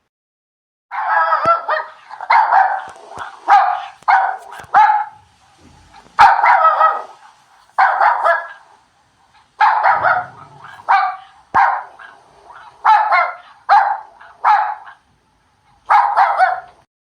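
A dog barking repeatedly in short runs of two or three barks with brief pauses, starting about a second in.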